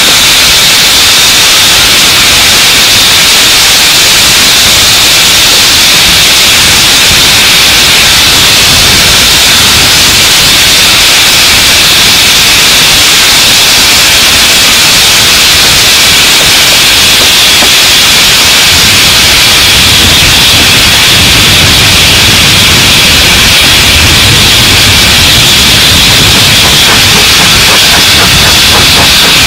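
Loud, steady rushing hiss of wind on the microphone out of a moving train's carriage window, with the train's running noise beneath. A low rumble grows stronger about two-thirds of the way through.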